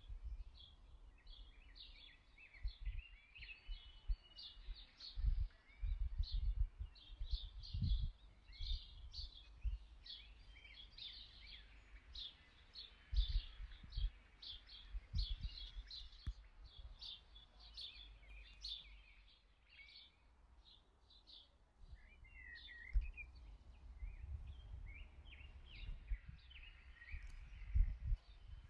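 Birds chirping in many quick, short, high calls throughout, over scattered dull low thumps, which are the loudest sounds.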